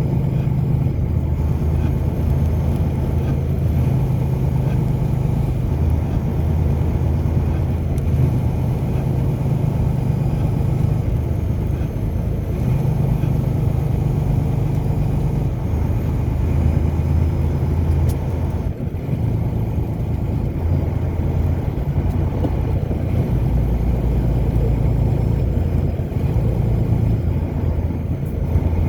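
A car driving: steady engine drone and road noise, a low hum that shifts in pitch every few seconds.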